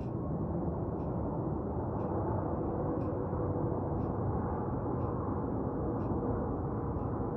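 Steady low rumble of a jet airliner on approach to land, with a faint whine and a faint high tick about once a second.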